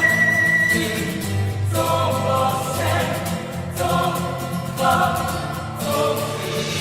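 Music: a choir singing held chords that change about once a second.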